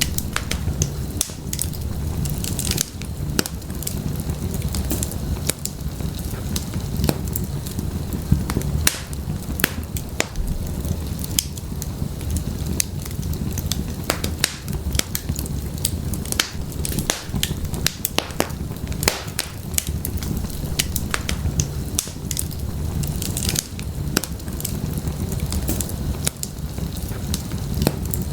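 Wood fire burning in a fireplace: frequent irregular pops and crackles over a steady low rumble of the flames.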